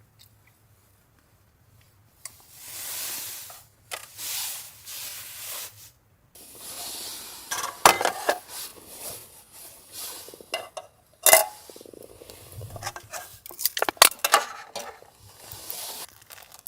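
Cookware and utensils clinking, knocking and scraping, with many sharp clinks from about seven seconds in. Before that come a few seconds of hissing.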